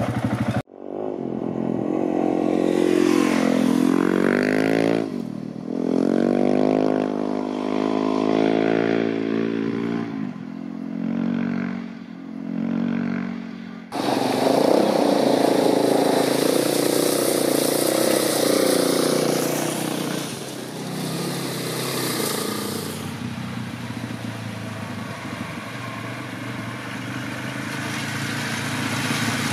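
Off-road adventure motorcycle engines revving up and down on a rough dirt track. About halfway through there is a sudden cut to a steadier engine drone with more hiss.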